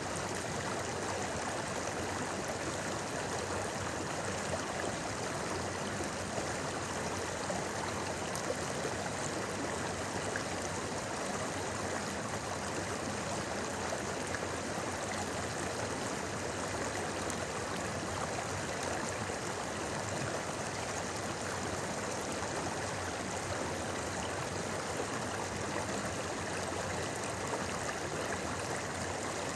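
A river babbling and flowing, an even rush of water with no breaks or changes.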